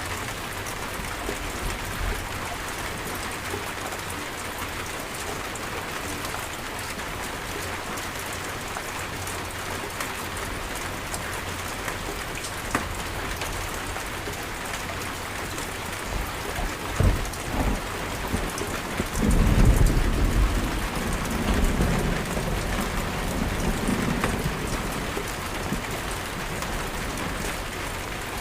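Steady heavy rain falling. About two-thirds of the way in, thunder cracks twice, then rolls in a loud low rumble that slowly fades over several seconds.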